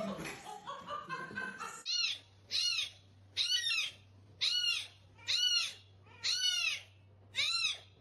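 A small animal's high-pitched call, repeated seven times at about one a second, each call a short rise and fall, over a faint steady hum; before the calls, about two seconds of mixed background sound.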